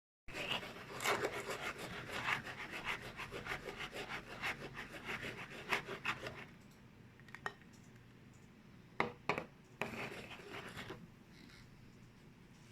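Salt grains rasping and crunching in a quick run of strokes for about six seconds. Then come a few separate sharp clicks and a shorter run of strokes near the end.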